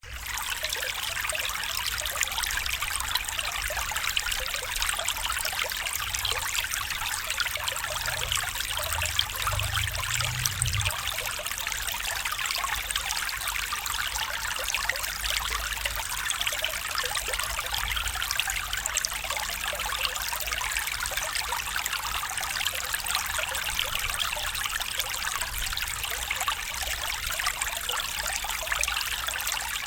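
Small stream trickling steadily, a dense bright splashing hiss of running water.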